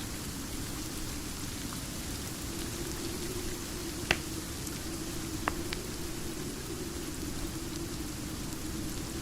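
Steady rain with a low, even rush, and a few sharp pops from a crackling fire; the loudest pop comes about four seconds in, two smaller ones a second and a half later.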